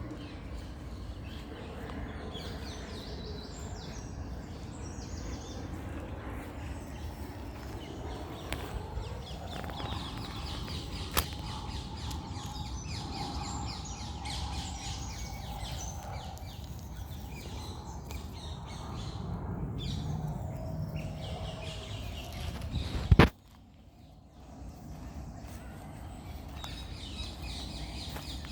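Birds chirping and calling over a steady low background rumble. A loud sharp click comes about three-quarters of the way through, after which the background goes quieter for a moment.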